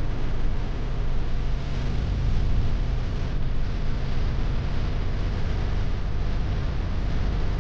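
Steady rumble and rush of an airliner's engines and airflow, as heard inside the aircraft.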